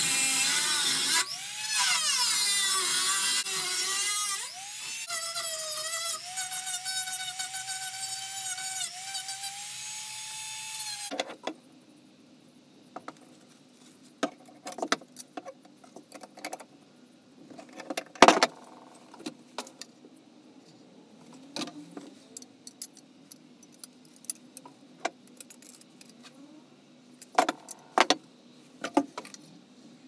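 Handheld rotary tool whining at high speed while grinding a copper sheet, its pitch dipping and recovering as it bears on the metal, then holding steady until it cuts off about a third of the way in. After that come quieter clicks and knocks of metal tools being handled as copper pipe is bent in a lever tube bender, with one sharp knock near the middle and several more near the end.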